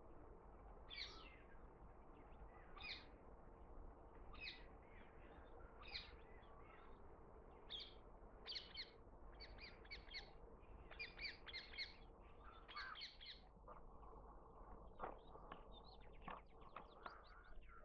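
Birds calling faintly in short, repeated calls, about one every one and a half seconds at first, then in quicker clusters of two or three near the middle.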